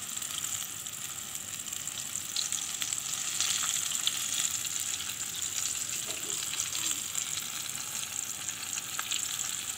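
Flour-coated chicken pieces deep-frying in hot oil in a pan: a steady sizzle with scattered small crackles.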